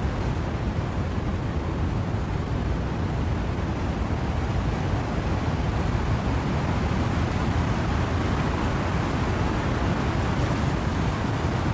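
Windy rain with wind through trees: a steady, even rushing noise, heaviest in the low end, unchanging throughout.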